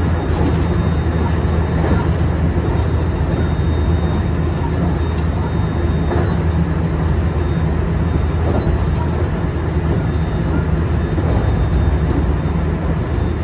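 Running noise heard inside the cabin of a JR 223 series 2000-subseries motor car (MoHa 222-2007, Mitsubishi IGBT VVVF inverter) travelling at speed: a steady rumble of wheels on rail and running gear, with a faint high steady tone.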